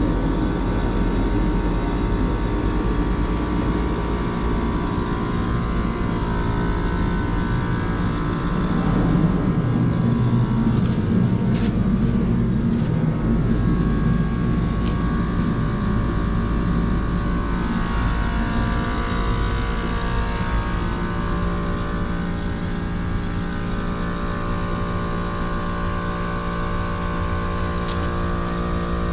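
Carrier heat pump outdoor unit running, a steady mechanical hum made of several steady tones over a low rumble. A few faint clicks come about twelve seconds in, and the hum's tones shift a little around eighteen seconds in.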